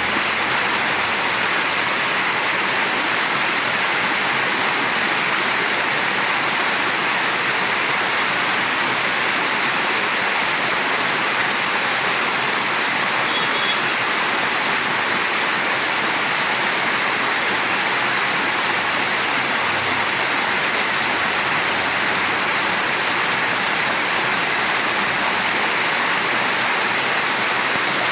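Mountain stream rushing steadily over rocks, a constant, even wash of water.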